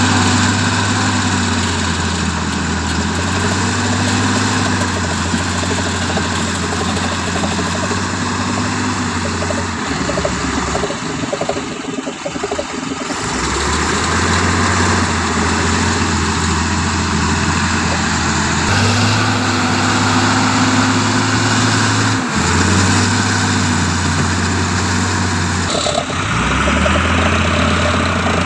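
Mitsubishi Canter dump truck's diesel engine running while it tips a load of fill soil, its speed stepping up and down several times. A rougher, noisier stretch comes about ten seconds in, and a single sharp knock near the end.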